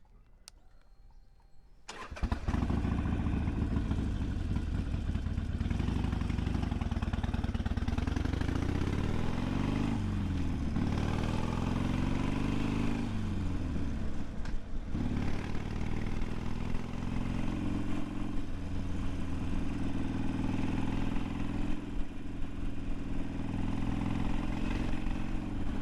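Loud Harley-Davidson Sportster V-twin motorcycle engine starting about two seconds in, then running. Its note rises and drops several times between about eight and fifteen seconds as it revs and pulls away, then holds steady.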